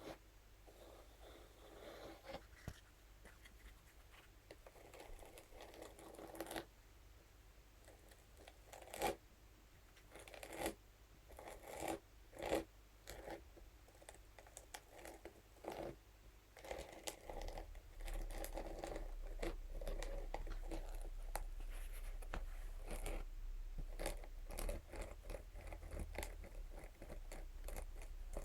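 Scalp massage brush scratched and tapped against a surface: irregular scratchy strokes with sharp taps scattered through. A low hum comes in about two-thirds of the way through.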